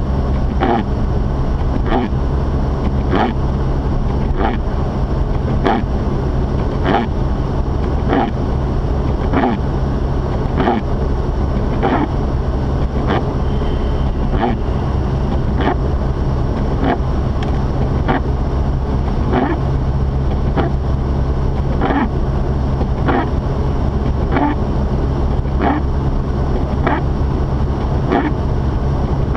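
Inside the cabin of a Mazda RX-8 driving through snow: the twin-rotor Wankel engine and tyres make a steady low drone, and over it the windshield wipers sweep regularly, about one stroke every 0.8 s.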